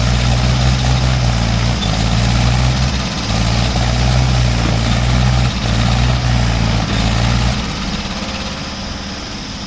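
Tractor engine running hard under load, a loud low drone with brief dips every second or two, as the tractor strains to get out of mud. About three-quarters of the way through the engine eases off to a quieter run.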